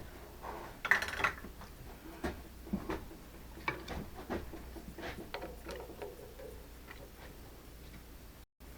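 Irregular light clicks and taps of tools and parts being handled at a machine, loudest about a second in, over a faint steady low hum.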